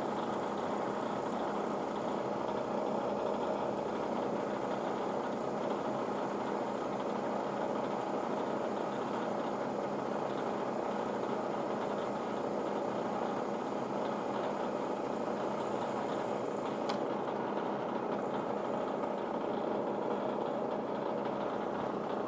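A machine running steadily, with an even hum and whir that does not change, and a faint tick about three-quarters of the way through.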